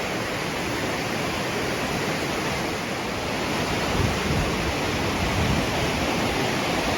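Surf washing onto a beach at high tide, a steady hiss of waves that grows a little louder about four seconds in.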